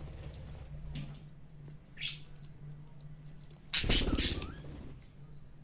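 Budgie bathing: a brief loud flurry of wing-fluttering and splashing about four seconds in, with a short high chirp about two seconds in.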